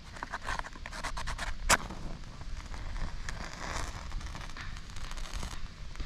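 Wood fire crackling in a fire pit: irregular sharp snaps and pops, densest in the first two seconds with one loud snap, over a steady hiss that thins out near the end.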